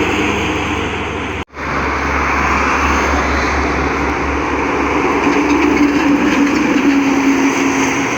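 Heavy trucks passing on a highway: steady engine and tyre noise with a low drone. The sound cuts out for an instant about one and a half seconds in, then carries on.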